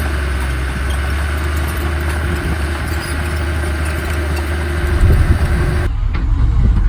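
Heavy earthmoving equipment engine running steadily with a deep hum. About five seconds in it turns rougher and louder, and just before six seconds the sound changes abruptly.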